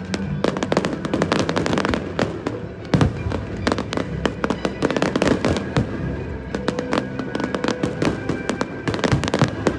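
Aerial fireworks bursting and crackling in rapid, dense succession, with a heavier bang about three seconds in. Music plays underneath.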